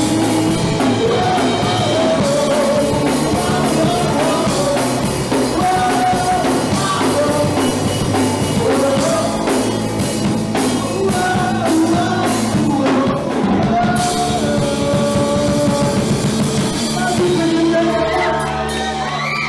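Punk rock band playing live, with drums and shouted singing over the band.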